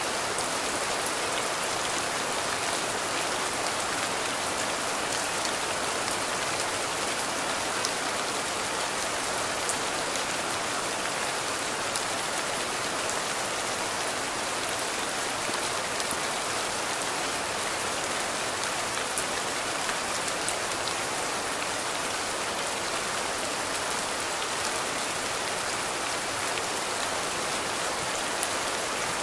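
Steady rain, an even hiss with scattered ticks of single drops.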